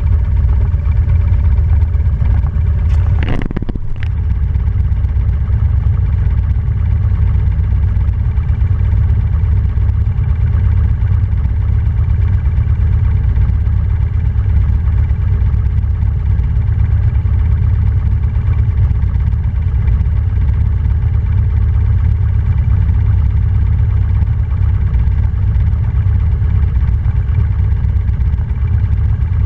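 Motorcycle engine running at a steady speed over a heavy low rumble, with a brief rushing sweep about three seconds in.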